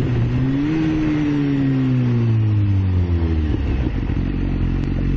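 Motorcycle engine rising briefly in pitch, then slowly falling over about three seconds as the bike slows, and settling at a steady lower pitch near the end, with wind rush over it.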